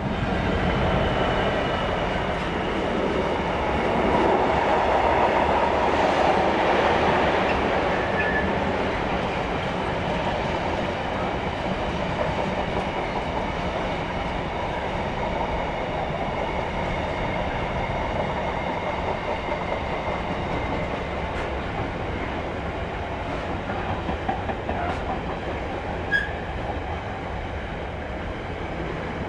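Container freight train passing at speed, its wagons rumbling and clattering over the rails. A faint steady high ringing runs under the noise. It is loudest over the first seven seconds or so, then settles to a steady rumble as the wagons roll by, with one sharp click near the end.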